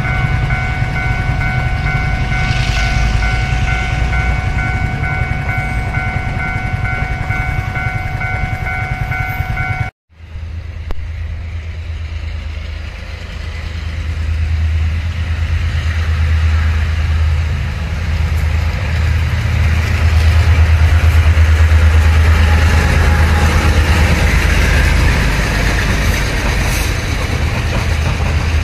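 Freight wagons rumbling over a level crossing while the crossing's warning bell rings in steady pulsing tones. The sound breaks off about ten seconds in. Then a diesel-electric locomotive's engine drone builds and peaks as it passes, and flat wagons are rolling by near the end.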